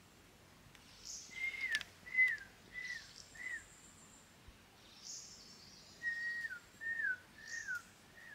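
A bird whistling two series of four clear notes, each note held level and then slurring downward, the second series starting about six seconds in.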